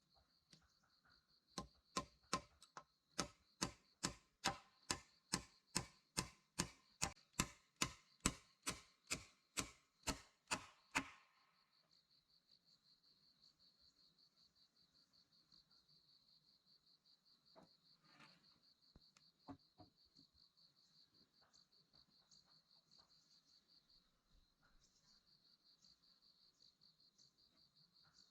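A regular series of about twenty sharp tool strikes, roughly two a second, each with a short ringing tone, stopping suddenly about eleven seconds in. Over it and after it, crickets trill steadily and high.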